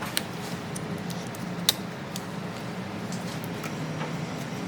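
A steady low hum with two sharp clicks, about a second and a half apart, the second louder.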